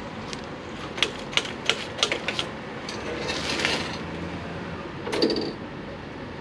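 A quick run of sharp mechanical clicks, then a short hiss and a single clunk: hand controls and switches on a Harley-Davidson being worked just before a start attempt, over a low steady rumble.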